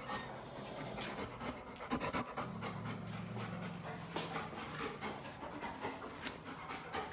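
A dog panting rapidly, with a low steady hum for about two seconds in the middle.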